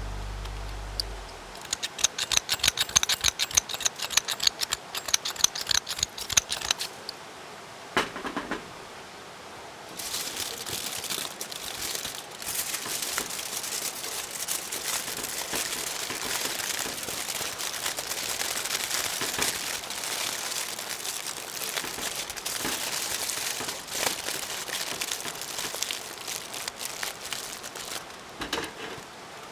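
Aluminium foil being handled and crumpled: a quick run of sharp crinkles, then a steady crinkling rustle from about a third of the way in as the foil is folded.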